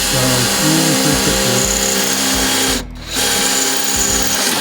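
Electric drill running, boring holes through newly welded 18-gauge steel tabs on the inside of a car door; it stops briefly about three seconds in, then runs again.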